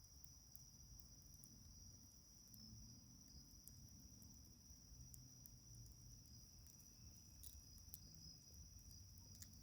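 Faint night chorus of crickets, a steady high trill, with scattered light crackles from a wood fire, a few of them sharper near the end.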